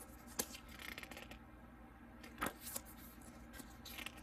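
Printed photo cards or pages being handled and flipped: soft paper rustling with a few sharp clicks and slaps, the loudest about two and a half seconds in.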